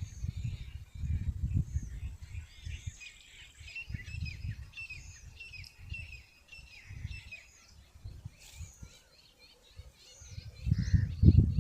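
Many small birds chirping in quick, short notes, with bursts of low rumble underneath that grow loudest near the end.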